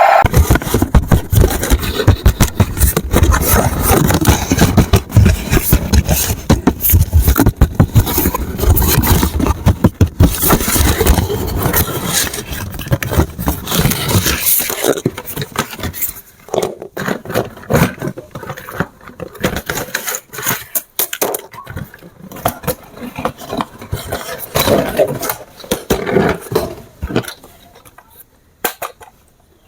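Dense scraping and crackling handling noise, with many sharp clicks, that thins out about halfway through and fades near the end.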